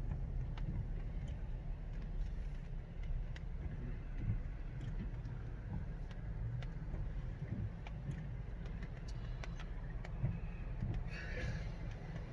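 Steady low road rumble inside a moving car's cabin, with scattered faint ticks.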